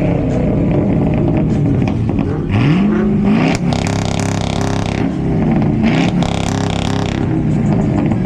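A car engine being revved hard: the pitch climbs quickly, holds at high revs with a loud exhaust rasp, drops back, and climbs again.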